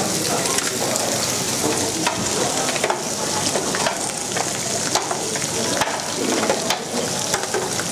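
Steady frying sizzle from a hot cooking pan, with light knocks as abalone in their shells are set down on it.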